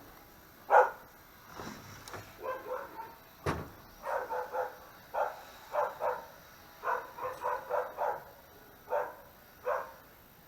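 A dog barking repeatedly: one loud bark about a second in, then runs of quicker, shorter barks and yips through the rest. A single sharp knock sounds about three and a half seconds in.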